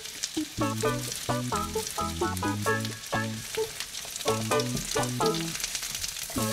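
Potato sticks, bell pepper strips and sliced almonds sizzling in oil in a frying pan as a spatula turns them, with a fine steady crackle. Background music with a melody of short notes plays over it and is the loudest sound.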